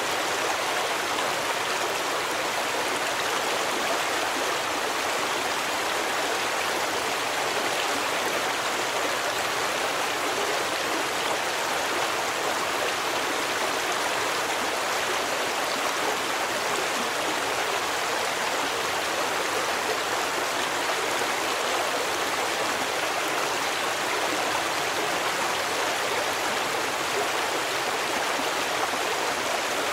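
A stream of water running steadily over rocks, an even, unbroken rush.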